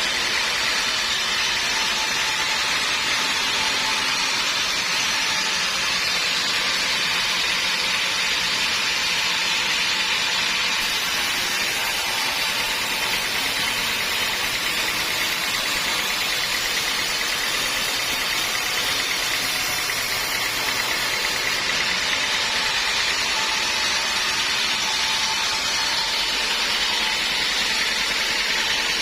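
Sawmill saw running without a break, an even, steady machine noise with a faint hum underneath.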